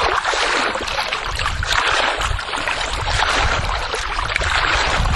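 Swimming pool water sloshing and splashing as a person wades through it on foot, a continuous churning with uneven surges.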